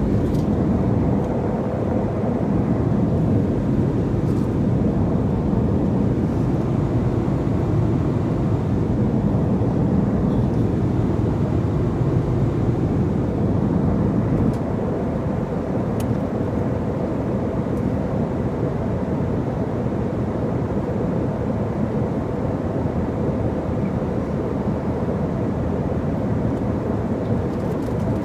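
Steady low roar of engine and airflow noise inside an airliner cabin in flight, with a faint steady hum in it; it eases off slightly about halfway through.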